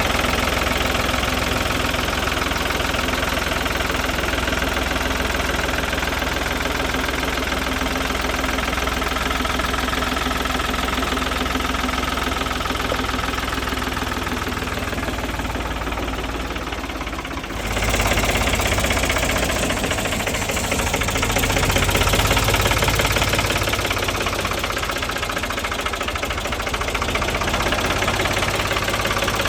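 1968 Ford Force 3000 tractor's three-cylinder diesel engine running steadily. Just past halfway the sound changes abruptly and grows louder, with more low rumble.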